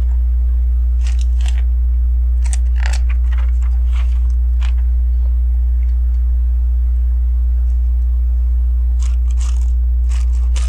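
LEGO pieces clicking and rattling as small plastic parts are sorted and pressed into place, in two spells of light clicks a few seconds apart, over a loud steady low electrical hum.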